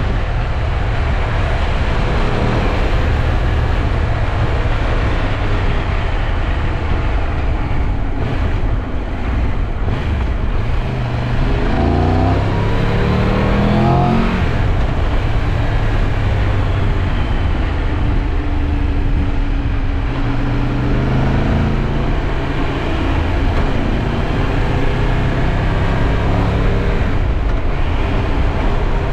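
Triumph Tiger 1200 Rally Pro's three-cylinder engine under way, with heavy wind rush on the microphone. The engine note rises through the gears as the bike accelerates about twelve seconds in, and rises again more faintly a little past the middle.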